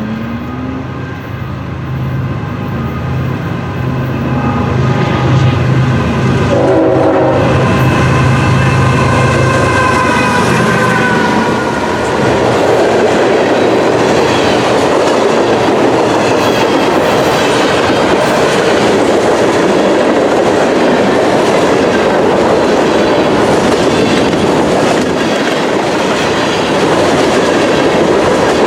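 A diesel locomotive passes close by with its engine running steadily and its horn sounding from about seven to eleven seconds in, the horn's pitch dropping as it goes by. From about twelve seconds in, a steady rumble and clatter of railcar wheels rolling over the rails follows.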